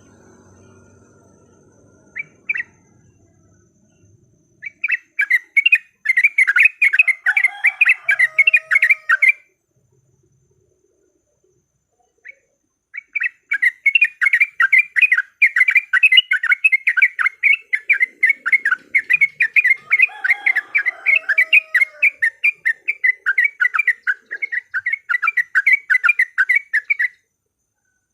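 Yellow-vented bulbuls chattering in rapid, fast-repeated notes, as in their fighting calls. The calls come in two long bouts, the first about five seconds in and the second from about thirteen seconds in, and each bout has a lower falling note in it.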